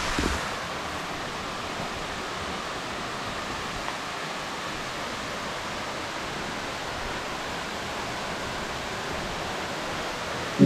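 Steady, even rush of water from a waterfall about twenty-five metres high.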